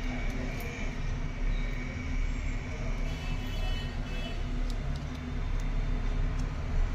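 Steady low background rumble with a faint hum, like traffic noise, and a few faint light clicks scattered through.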